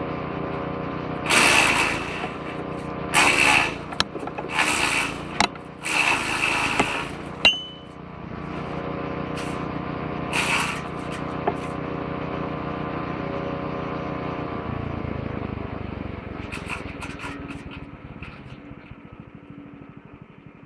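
Petrol-engined woodchipper shredder running steadily, with loud bursts of grinding and chewing as branches are fed into the shredder drum, four times in the first seven seconds and once more around ten seconds in. About fifteen seconds in the engine note drops, then it slows and runs down, fading near the end.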